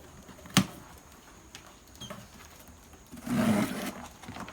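Game birds moving about inside cardboard shipping boxes: a sharp knock under a second in, then a loud scuffle lasting under a second about three seconds in.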